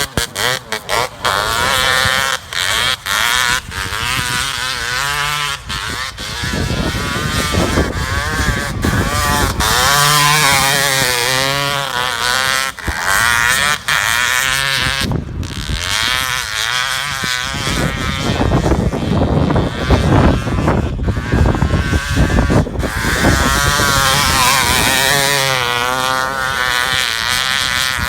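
Suzuki RM250 single-cylinder two-stroke dirt bike ridden hard. The engine screams up to high revs and drops back again and again as the rider shifts and works through corners.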